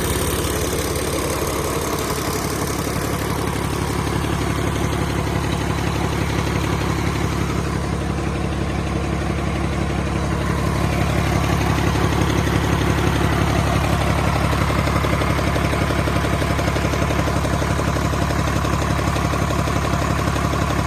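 Rebuilt Cummins QSL9 inline-six diesel engine running steadily on a performance test, getting a little louder about halfway through.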